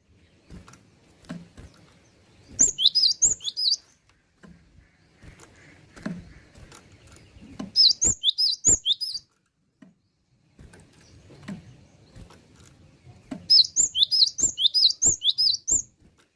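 Cinereous tit (gelatik batu) singing in three bursts of rapid, high chirps, each a quick run of short downward-sweeping notes. Soft clicks and knocks fill the gaps between the bursts.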